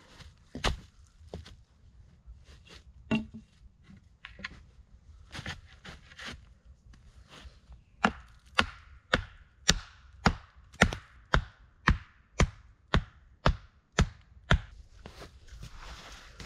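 Sharp blows on wood while a log reflector wall is being built for a campfire: a few scattered knocks, then from about halfway a steady run of some fourteen strikes, a little under two a second.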